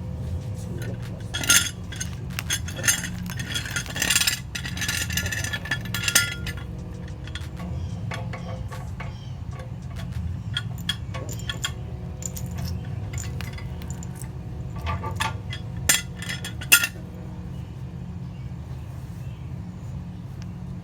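Metal clinks and rattles from a Chevy Malibu's exhaust as the muffler and its hanger rods are knocked about while a new rubber muffler hanger is worked on. The clinks come in two clusters, a longer one over the first third and a shorter one about three quarters through, over a steady low hum.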